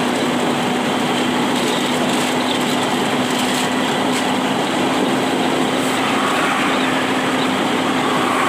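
Vehicle driving in heavy rain: a steady rush of rain and wet road noise over a steady engine hum.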